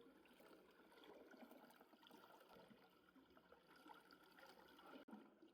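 Near silence: faint background noise with no clear event.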